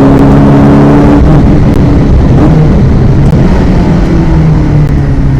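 VW Golf GTI Mk1 rally car's four-cylinder engine heard from inside the cabin, running loud at a steady high pitch. About a second in the note breaks off, and it comes back lower later on.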